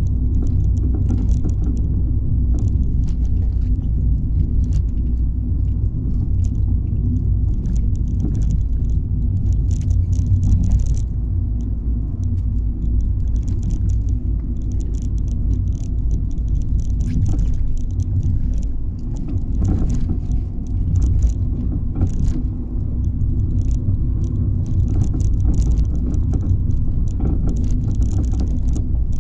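Fiat 500 being driven, with a steady low rumble and many short knocks and clunks from under the car at irregular moments. The clunking is a fault the owner has not identified, heard on every kind of road.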